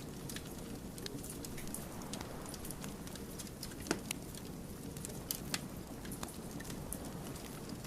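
Burning firewood crackling, with irregular sharp pops over the low rush of the flames; the loudest pop comes about four seconds in.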